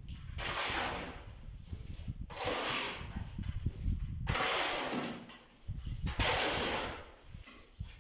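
A snake hissing in long breaths, four in a row about two seconds apart, over a low rumble.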